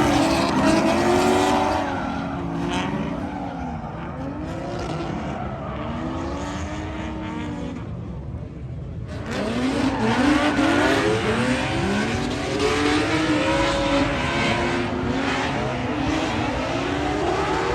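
Drifting car's engine revving hard, its pitch climbing and dropping again and again. It fades somewhat in the middle and comes back louder about halfway through.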